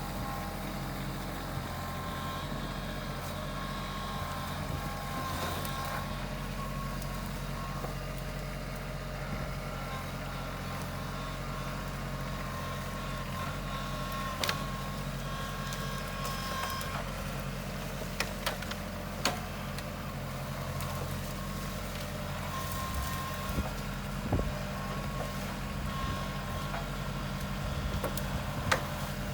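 Kubota LX2610 compact tractor's diesel engine running steadily under work, with a thin steady whine above the engine note. A few sharp knocks stand out during its second half.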